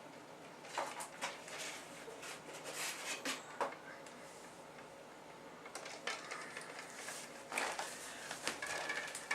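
Kitchen handling: dishes and utensils clinking and knocking now and then, a scattering of short, light clatters.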